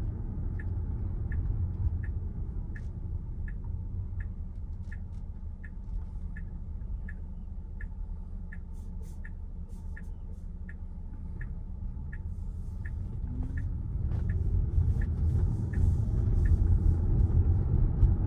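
Low road and tyre rumble inside a Tesla Model Y's cabin, with the turn signal ticking about one and a half times a second. The rumble grows louder past the middle, and the ticking stops near the end.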